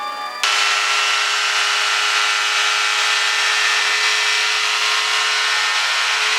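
Kitfox light aircraft's engine and propeller at full power on the takeoff roll: a steady, loud drone with a hiss that cuts in abruptly about half a second in, once the music stops.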